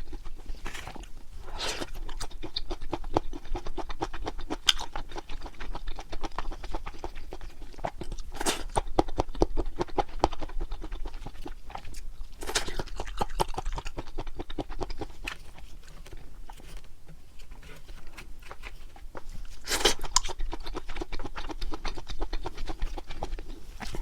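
Close-miked chewing of pork intestines and cheese: a steady run of small wet, clicky mouth sounds. Four louder noises stand out, spaced a few seconds apart.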